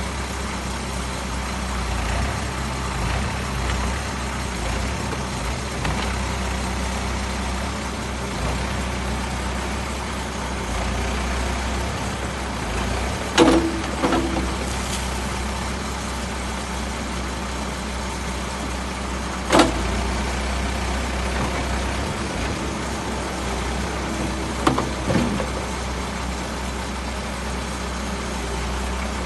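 Diesel engine of a 2009 Case 590 Super M backhoe running steadily at idle. Sharp knocks are heard a little before halfway, again some six seconds later, and as a quick double knock near the end.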